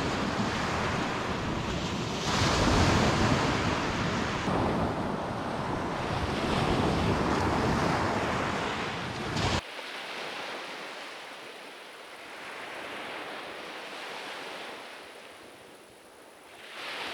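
Surf washing onto the beach, with wind buffeting the microphone. About ten seconds in, the wind rumble cuts off suddenly, leaving quieter waves rising and falling.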